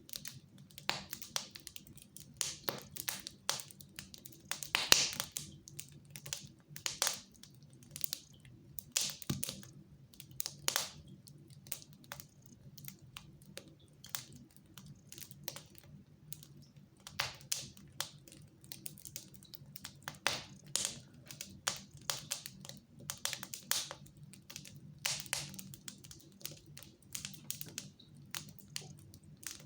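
Wood fire crackling in a fireplace: irregular sharp pops and snaps, several a second, over a faint steady low hum.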